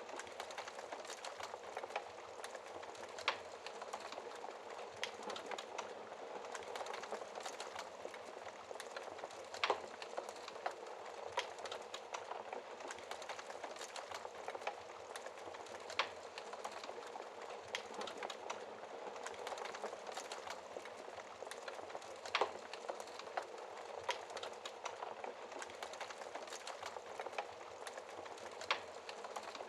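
Wood logs burning in a fireplace: a steady hiss of flame with continual small crackles and occasional louder sharp pops.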